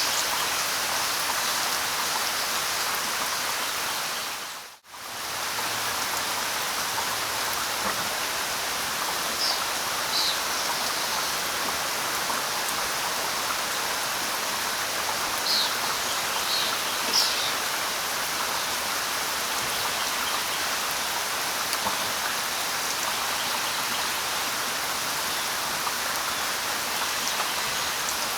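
Steady light rain pattering on leaves, with a few short, high bird chirps about ten seconds in and again around sixteen to seventeen seconds. The rain briefly fades out and back in about five seconds in.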